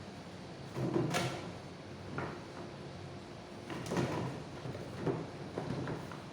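Pieces of cardboard being handled and set in place: a few knocks and scrapes about a second in, and again around four seconds in and near the end.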